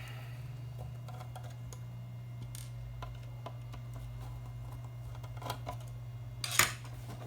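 Light clicks and taps of hand tools and parts being handled while an audio amplifier is being taken apart, with one sharper clack about six and a half seconds in, over a steady low hum.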